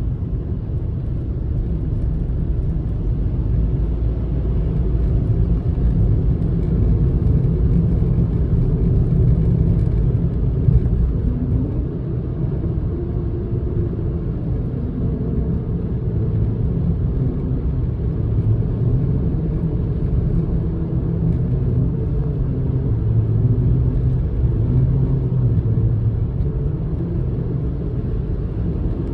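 Steady low rumble of a road vehicle driving, with no distinct events.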